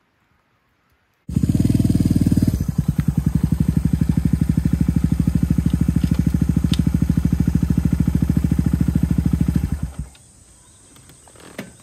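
A single-cylinder motorcycle engine, the Suzuki VanVan 200, running steadily at an even pulsing beat. It comes in suddenly about a second in and stops about two seconds before the end.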